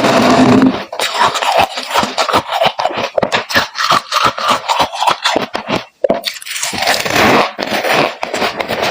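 Freezer frost crunching and scraping in a rapid, irregular run of crisp crunches close to the microphone, with a short break about six seconds in.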